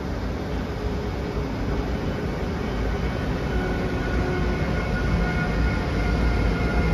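A Siemens Vectron electric locomotive hauling a freight train of container wagons passes slowly, its steady rumble getting louder as it nears. A faint high whine comes in about halfway.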